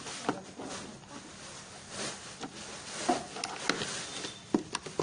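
Soft, pudding-like slime being squeezed and poked by hand, making scattered small wet clicks and pops that come more often near the end.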